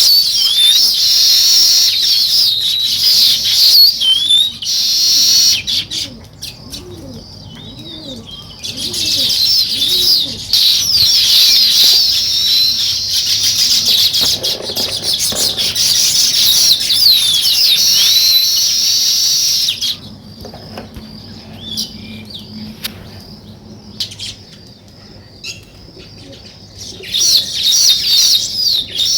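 A flock of sparrows chirping together in dense, overlapping chatter, loud in long bursts with quieter stretches about five to eight seconds in and again from about twenty to twenty-seven seconds in.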